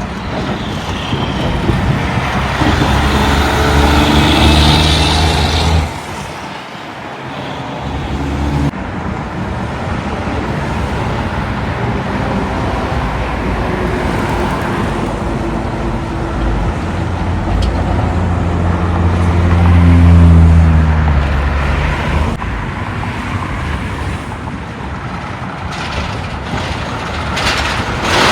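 Road traffic with heavy diesel trucks driving past. One loud pass cuts off suddenly about six seconds in, and a second swells up and fades away about two-thirds of the way through.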